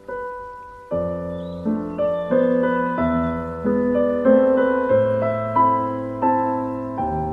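Background piano music: a slow, gentle melody of single struck notes, each fading away, over sustained bass notes.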